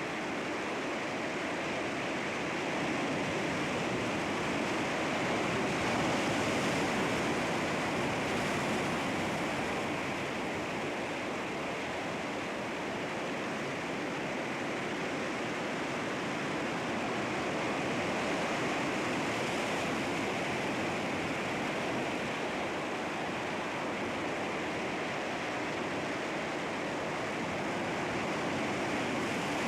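Sea waves breaking and washing against rocks, a continuous surf that swells and eases slowly.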